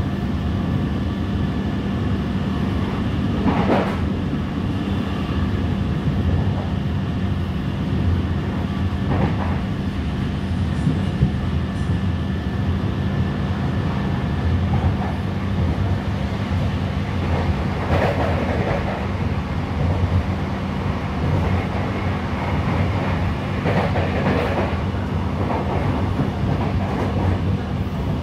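Local electric commuter train running at speed, heard from inside the passenger car: a steady low rumble and hum of the wheels on the track, with a louder rattle or clack now and then.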